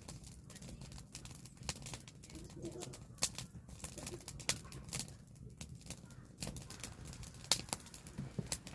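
Firewood burning: irregular sharp crackles and pops over a steady low rumble of the fire, with one louder pop about three quarters of the way through.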